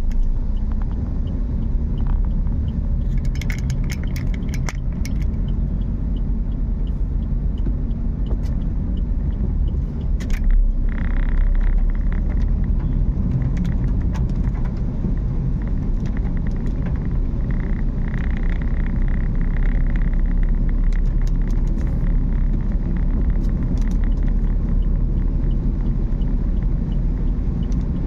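A car driving, with steady low road and engine rumble. Scattered sharp clicks and a faint, evenly spaced ticking run through it, and a higher-pitched tone comes in twice, at about eleven and eighteen seconds.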